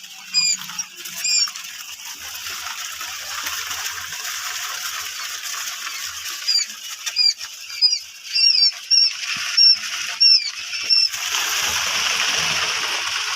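A brooder full of quail chicks peeping: a dense, steady chorus of high cheeps, with single sharp peeps standing out. The louder peeps crowd together in the second half.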